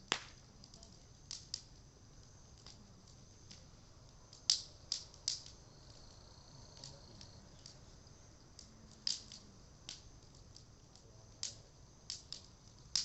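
Bonfire of reused Japanese cedar (sugi) timber crackling: a dozen or so irregular sharp pops and snaps over a faint steady background, the loudest about four and a half, five and nine seconds in.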